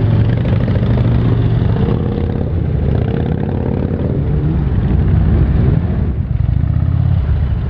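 Harley-Davidson touring motorcycle's V-twin engine running under the rider, a deep low rumble whose pitch rises and falls with the throttle as the bike pulls away in slow traffic.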